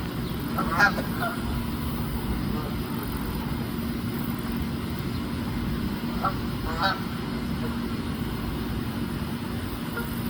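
Geese honking in two short bursts, about a second in and again about six to seven seconds in, over a steady low rumble.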